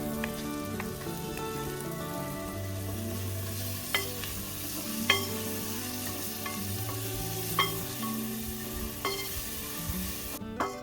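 Chicken feet sizzling as they fry in a pot, with a utensil knocking against the pot a few times as they are stirred, over background music. The sizzling cuts off suddenly near the end.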